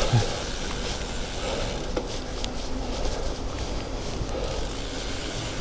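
Steady rumble of wind and tyre noise from a moving bicycle, picked up by a bike-mounted action camera, with a few faint ticks.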